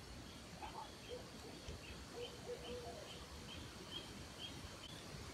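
Faint birdsong: a run of short high chirps repeated about twice a second, with a few lower short notes, over a light outdoor hiss.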